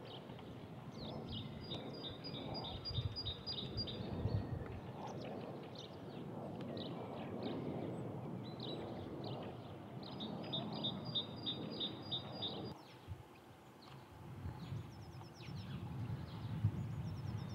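Small birds chirping, with two runs of a fast trill of evenly spaced high notes, over a low steady rumble of outdoor background noise. The background changes abruptly about thirteen seconds in.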